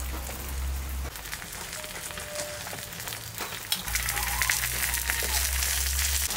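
Banana-leaf-wrapped hilsa parcels sizzling and crackling in oil in a clay pan over a wood fire: a steady hiss full of small crackles.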